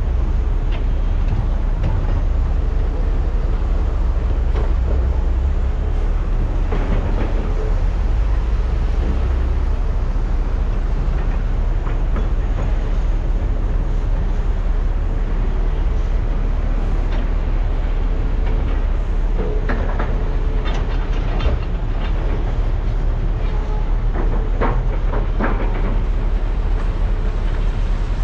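Large hydraulic mining excavators' diesel engines running steadily under load, with scattered clanks and knocks from the buckets and material as trucks are loaded.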